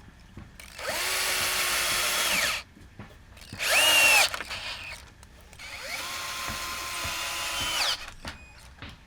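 Power drill running in three bursts, its motor whine rising as it spins up and falling as it runs down each time. The middle burst is short, and it is higher and louder than the two longer bursts either side of it.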